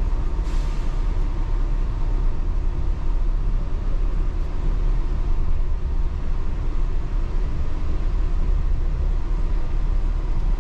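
Yurikamome rubber-tyred automated train running along its elevated guideway, heard from inside the cab: a steady low rumble with a faint steady whine.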